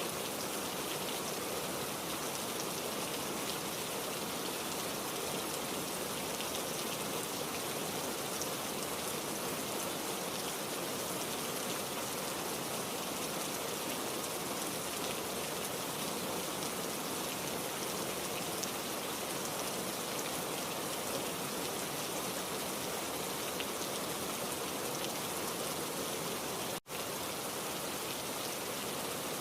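Steady heavy rain falling in a dense, even hiss, with no thunder. Near the end the sound cuts out for an instant and then resumes.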